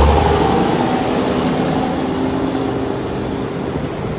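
Tractor-trailer truck engine going by, a deep rumble that drops away about half a second in and then fades steadily.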